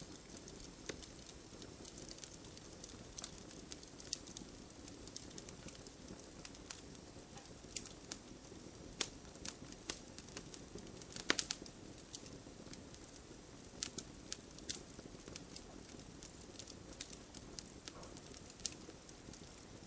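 Wood fire crackling: irregular sharp pops over a soft steady hiss, with a louder cluster of pops about 11 seconds in.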